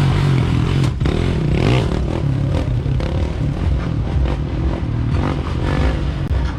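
Motorcycle engine running, its pitch rising and falling, with clattering knocks mixed in.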